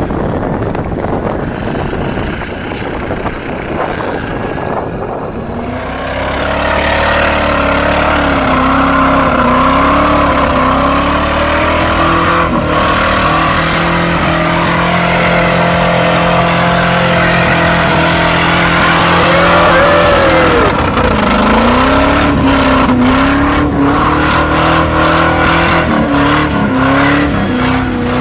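Old 4x4 pickup truck engine revving hard under load, its pitch wavering up and down. From about six seconds in the engine note grows stronger and steadier, and near the end the revs drop and climb again.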